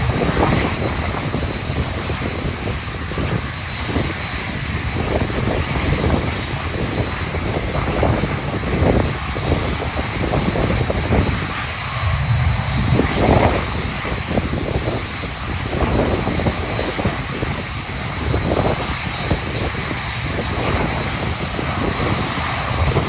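Red Arrows BAE Hawk T1 jets running on the ground: a steady high-pitched jet whine over a low rumble.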